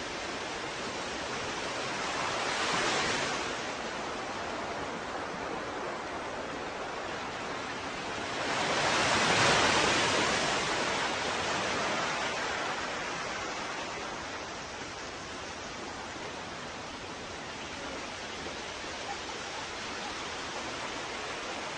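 Ocean waves breaking on a shore: a steady hiss of surf that swells twice, briefly about three seconds in and louder and longer around nine seconds in.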